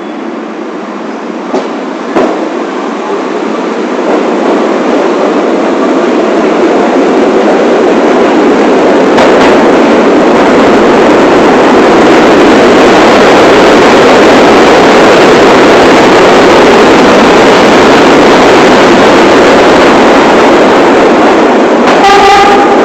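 New York City subway train (1 line) running on the rails: a dense rumble that grows louder over the first several seconds, then holds steady. There are two sharp clicks about two seconds in and a brief pitched tone near the end.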